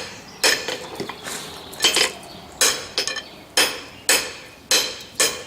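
Blacksmith's hand hammer striking a hot bar on the anvil, ringing blows about one every second with lighter taps between, drawing out a point on the end of the bar first so that the end does not fold into a cold shut.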